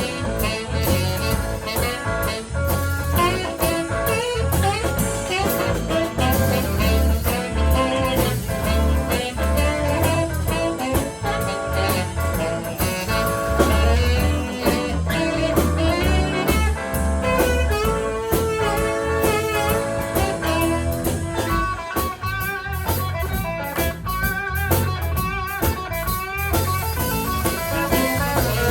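Live blues band playing an instrumental break: a lead line solos over guitar, bass and a drum kit keeping a steady beat.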